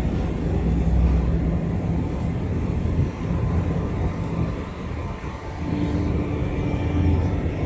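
Outdoor city ambience dominated by a low, steady engine drone with a humming tone that shifts in pitch about two-thirds of the way through.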